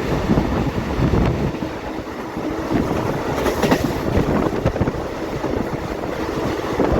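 Passenger train running along the line, a steady rumble with scattered clicks from the wheels and track.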